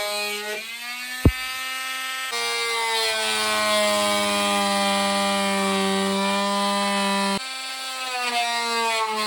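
Oscillating multi-tool cutting into fiberglass, a steady buzzing whine whose pitch shifts and sags as the blade bites. There is a sharp click about a second in.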